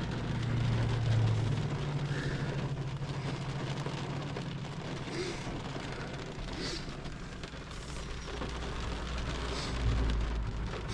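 Thunderstorm wind rushing over the microphone as heavy rain moves in, with a deeper rumble building near the end. A low steady hum sits underneath during the first few seconds.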